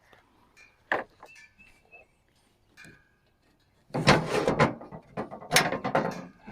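A single sharp knock, then about two seconds of loud clattering and scraping as parts of the sawmill are handled.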